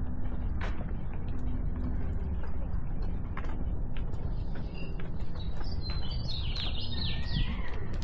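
A small songbird chirping in a quick run of short, falling notes in the second half, over a steady low rumble with scattered clicks.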